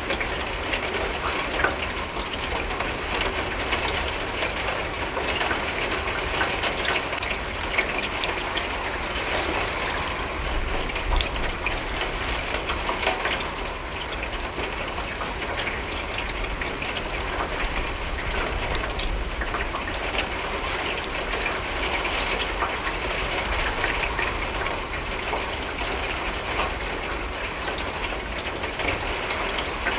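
Steady rain falling on a window, with many small drop strikes over an even hiss and a low rumble underneath.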